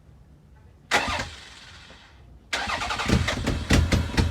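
Starter cranking a freshly swapped, TRD-supercharged Toyota 3MZ-FE V6 on its first start: a short crank about a second in, then a longer crank from about two and a half seconds in with quick uneven strokes.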